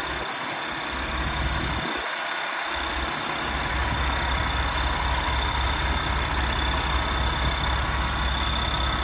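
Paccar MX-13 diesel engine of a Peterbilt 567 truck idling with a steady low rumble, broken briefly in the first few seconds and then even.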